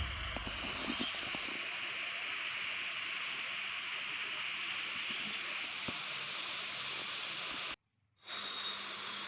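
Steady hiss with a few faint ticks, dropping out to silence for about half a second near the end, then resuming.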